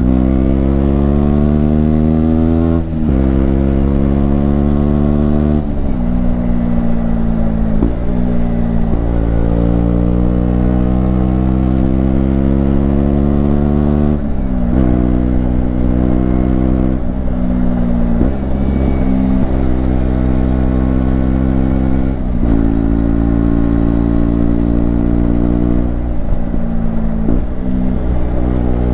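KTM Duke 125's single-cylinder four-stroke engine pulling under load while riding. Its pitch climbs steadily and drops sharply about seven times, as with gear changes or throttle lifts.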